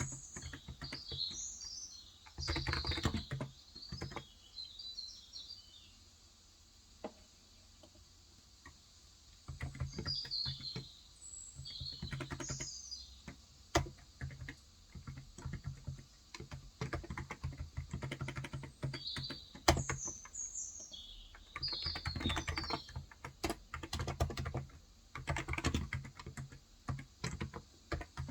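Typing in bursts on a Cox Endeavor electro-capacitive (Topre-style) 35 g tenkeyless keyboard, with a lull of a few seconds about a third of the way in. Small birds chirp over it several times.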